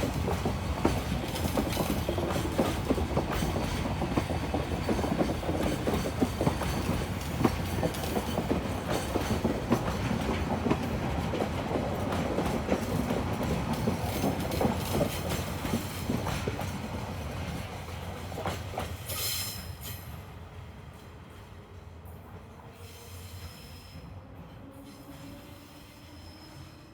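EF65 electric locomotive on a freight train running through the station, its wheels clattering and clicking over the rail joints. The rattle dies away sharply about twenty seconds in and fades to a faint steady hum.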